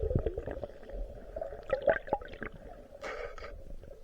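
Muffled water gurgling and sloshing, heard as if underwater, with short knocks scattered through it.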